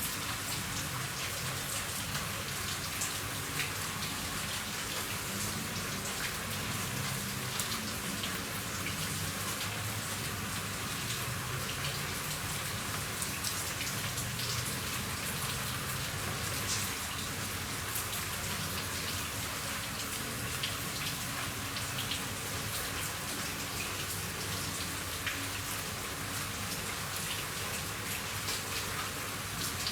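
Steady rain falling on a roof: an even hiss with many separate drops ticking sharply on the surface.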